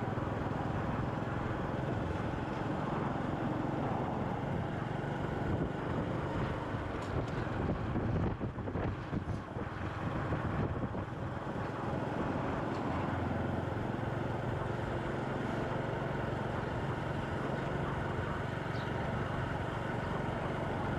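Motorcycle riding through city traffic: a steady low engine hum under wind buffeting the microphone, with the wind noise gusting unevenly about eight to ten seconds in.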